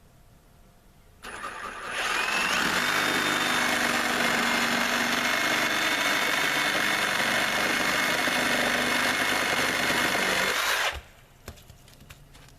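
Milwaukee cordless reciprocating saw (Sawzall) cutting through a landscaping timber. It starts about a second in, runs steadily for about nine seconds, then stops abruptly, leaving a few light clicks.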